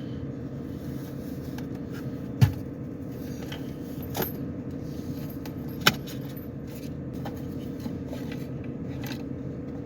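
Steady hum of a Ford Edge idling, heard from inside the car, with scattered light clicks and rattles and two sharp knocks, about two and a half and six seconds in.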